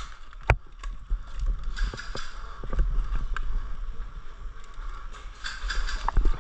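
Rustling and handling noise with a low rumble, broken by a few sharp cracks; the loudest crack comes about half a second in.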